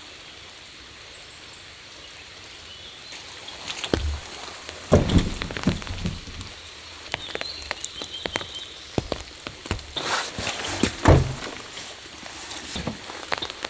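Steady rain falling, with irregular knocks and thumps through it; the heaviest come about four and five seconds in and again about eleven seconds in.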